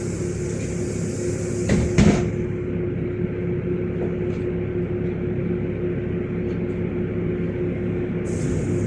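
Inside a LiAZ 5292.65 city bus on the move: the engine and drivetrain drone steadily with a constant hum. A high hiss fades out about two seconds in, just as a couple of sharp knocks sound. Another hiss starts near the end.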